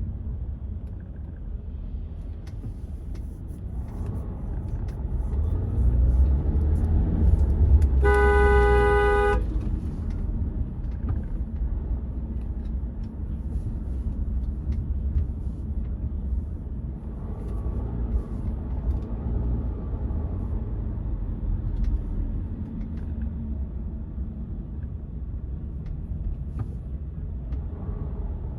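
Low, steady rumble of a car driving in traffic, with a car horn honking once, one note held for about a second, roughly a third of the way in.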